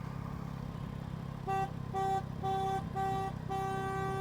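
Vehicle horn honking five times in a row at one steady pitch, the toots growing longer and the last held for over a second, over a steady low rumble of engine and road noise.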